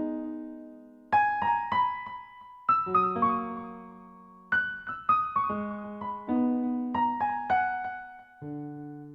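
Background piano music: a slow, gentle melody of single notes and chords that ring and fade, in phrases separated by short pauses.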